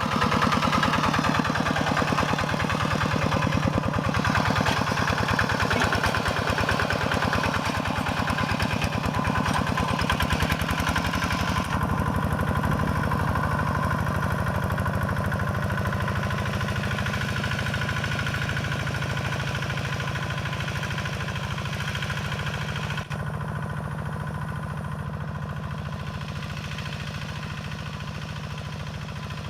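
Quick G1000 two-wheel hand tractor's single-cylinder diesel engine running steadily with a rapid, even chugging. It grows slowly fainter and turns duller about twelve seconds in and again at about twenty-three seconds.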